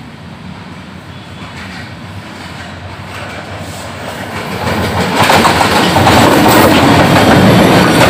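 Diesel-hauled express passenger train approaching and passing close by. It starts faint, grows louder from about four seconds in, and becomes a loud rush of wheels on the rails as the coaches go past.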